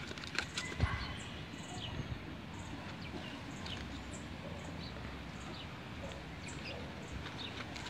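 Small birds chirping now and then, short scattered calls over a low steady rumble, with a few light clicks in the first second.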